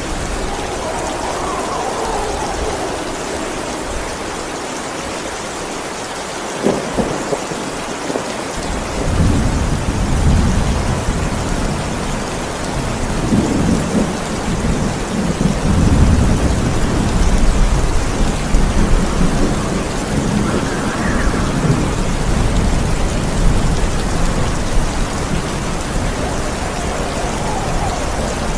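Steady rain hissing, with a sharp thunderclap about a quarter of the way in, then a long, deep rumble of thunder that swells and rolls on through the rest.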